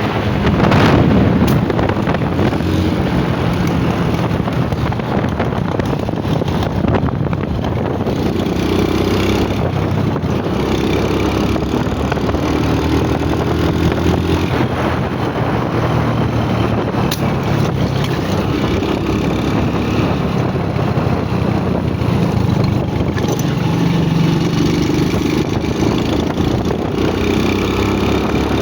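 Motorcycle engine running under way, with wind rushing over the microphone; the engine note rises and falls a few times as the speed changes.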